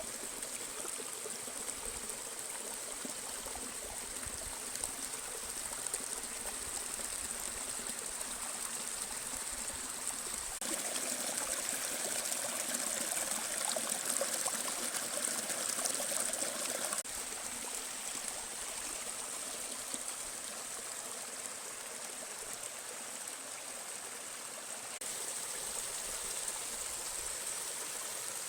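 Waterfall and its stream: water rushing and splashing steadily, the sound changing abruptly three times and loudest through the middle stretch.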